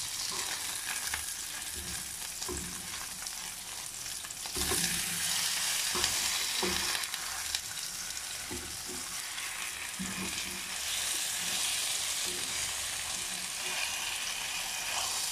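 Breaded chops frying in hot oil in a frying pan, a steady sizzle that grows louder about four and a half seconds in, with a spatula scraping and knocking on the pan as the chops are turned.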